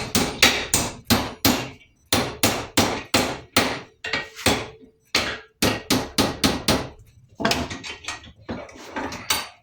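Hammer blows on a metal piece being bent into shape, struck about three or four times a second in several runs with short pauses between.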